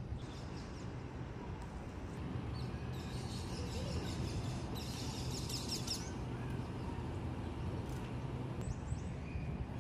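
Small birds chirping in quick, high, repeated notes, densest a few seconds in and again briefly near the end, over a steady low background rumble.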